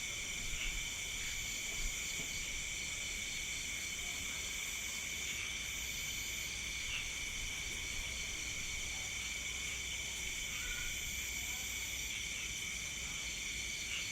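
Night insect chorus of crickets and other insects trilling steadily at several pitches, one of them pulsing rapidly. A faint, very high thin whine comes and goes over it a few times.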